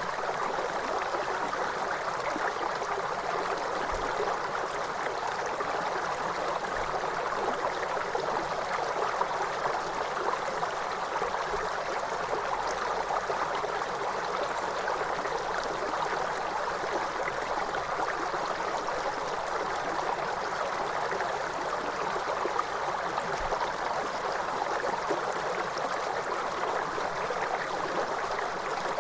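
Waterfall: a steady, unbroken rush of falling water, mostly mid-pitched.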